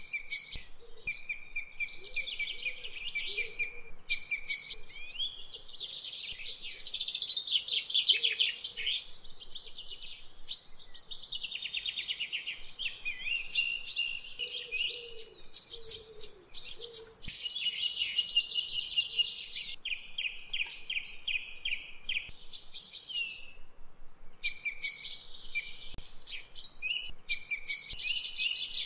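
Birds singing continuously, with overlapping chirps, whistled notes and fast trills of rapidly repeated notes.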